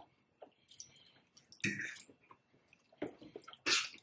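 A person chewing food, heard as a few short irregular mouth noises with quiet between them.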